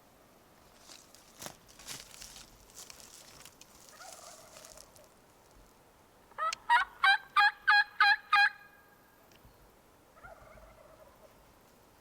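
A wild turkey tom gobbling once from his roost: a loud, rapid rattle of about eight notes a little past halfway through.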